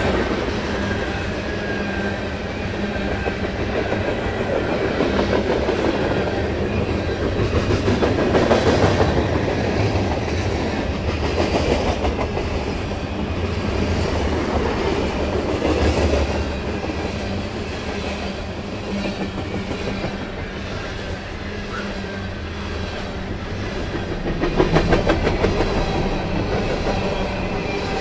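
Freight cars (covered hoppers, tank and coil cars) rolling past at close range: a steady rumble of steel wheels on rail with clickety-clack as the wheelsets cross rail joints, swelling louder now and then.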